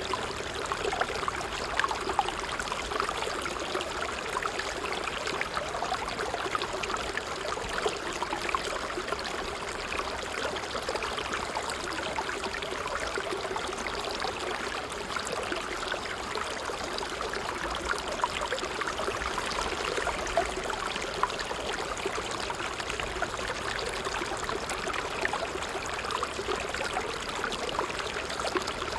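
Water trickling steadily, a medium trickle with fine bubbling and splashing detail throughout.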